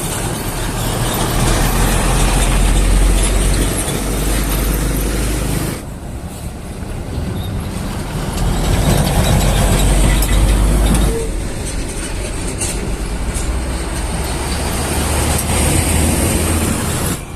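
Heavy diesel trucks driving past, a loud low engine rumble with tyre and road noise. The sound changes abruptly about six and eleven seconds in, as one passing vehicle gives way to another.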